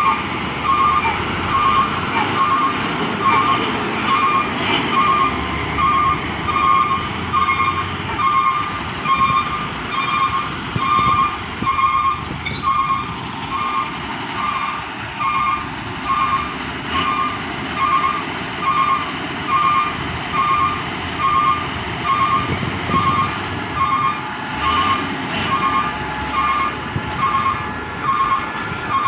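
Truck reversing alarm beeping steadily about once a second over the low running rumble of vehicle engines.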